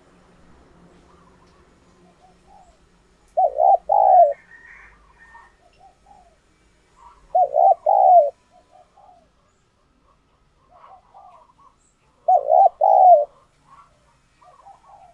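Spotted dove cooing: three loud phrases of two or three notes, each about a second long, spaced roughly four seconds apart, with fainter bird calls in between.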